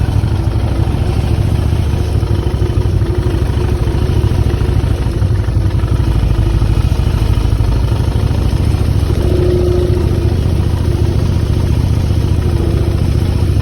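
Motorcycle engine running steadily while riding, a continuous low rumble with no clear revving.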